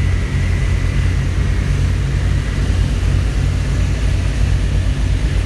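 Antique tractor engine running steadily, a low rumble.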